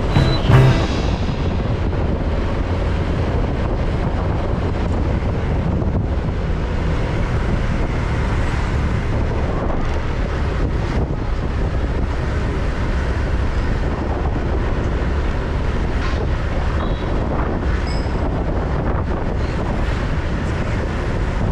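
Riding a motorbike through city traffic: a steady rumble of wind on the microphone and road noise, with a brief knock about half a second in.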